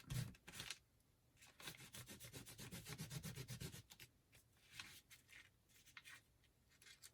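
Quiet rubbing of a paper craft tag as ink is wiped off it: a run of quick back-and-forth strokes from about a second and a half in to about four seconds, then a few scattered rubs.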